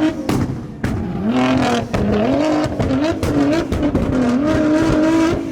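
A modified car's engine revving hard as it accelerates away, its pitch climbing and dropping several times over.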